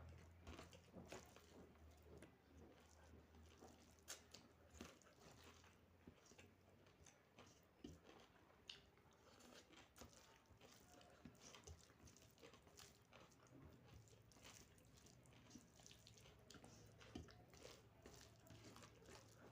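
A person eating close to the microphone, faint: soft chewing and biting with many small irregular clicks and crunches.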